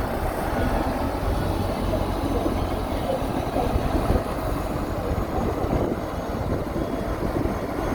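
Heavy earthmoving machinery, a bulldozer or dump truck, running with a steady, low diesel rumble.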